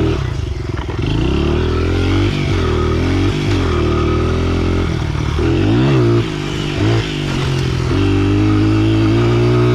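Pit bike engine revving hard, its pitch rising and falling again and again as the throttle is worked, with two brief drops in level a little past the middle.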